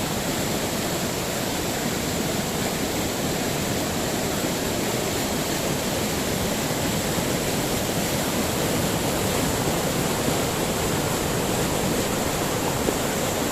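River water rushing steadily over a falls, a dense, unbroken roar of pouring water.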